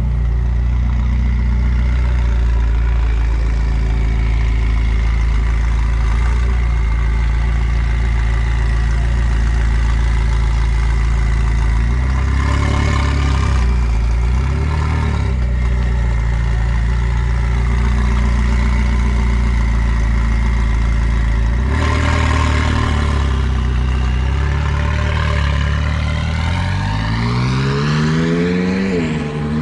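McLaren 600LT's twin-turbo V8 idling steadily, blipped briefly a few times around the middle, then revved in one long climb near the end that drops back down.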